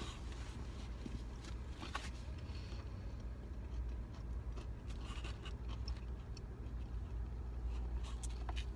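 Quiet chewing of fried breaded shrimp, with a few small crunches and clicks and a rustle of the paper takeout box, over the steady low hum of a car's cabin.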